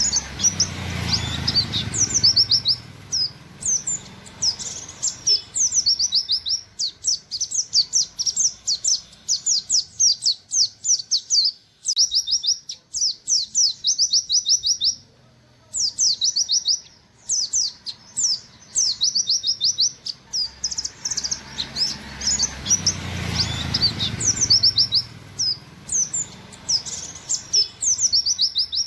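A buxtoni white-eye (pleci) singing in fast 'nembak' volleys: long runs of rapid, high, downslurred 'wit wit' notes, with short breaks about 12 and 15 seconds in. A low rumble swells twice, near the start and about 23 seconds in.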